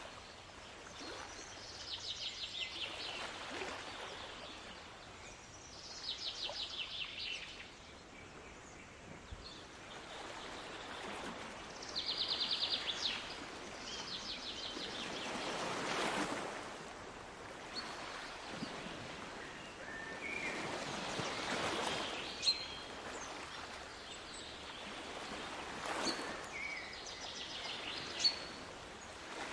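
Sea waves washing ashore in slow swells every few seconds, with a small songbird repeating short rapid trills and, later, a few single chirps.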